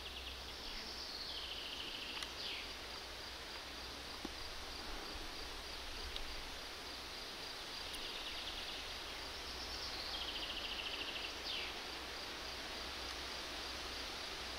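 A songbird sings twice, about nine seconds apart: each phrase is a run of quick trills that ends in a short sweeping flourish. Beneath it runs a faint, steady, high pulsing, like an insect, over a low rumble of outdoor ambience.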